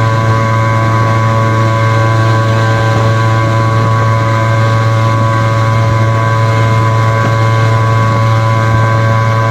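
Suzuki two-stroke engine running flat out at steady high revs, a continuous buzzing drone with no change in pitch, with wind rushing past.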